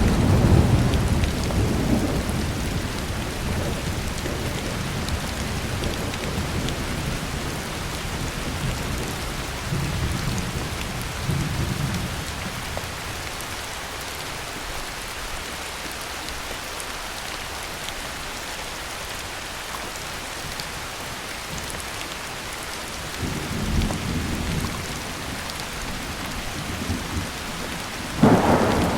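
Heavy rain falling steadily with rolling thunder: a low rumble dying away at the start, softer rumbles about a third and three-quarters of the way through, and a sharper, louder thunderclap just before the end.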